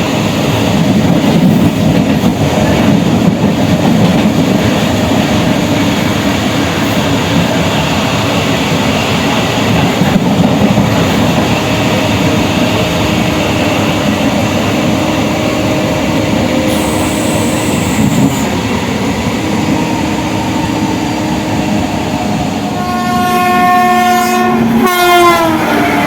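Steady running noise of the MEMU train's wheels on the rails, heard from on board. Near the end a train horn sounds for about two and a half seconds, its pitch dropping as it passes.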